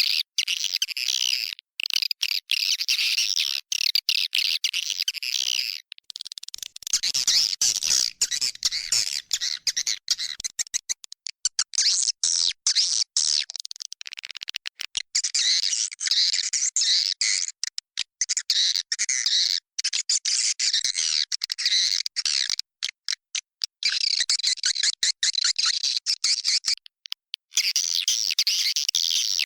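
Swiftlet lure call: a dense flock of swiftlets chirping and twittering, recorded inside a swiftlet nesting house and played to draw swiftlets in to roost. The chirping cuts in and out abruptly many times.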